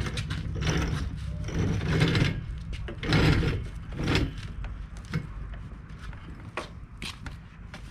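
Honda Odyssey sliding door being worked onto its track on its freshly refitted rollers: a run of rolling, scraping pushes over the first few seconds, then a few sharp clicks.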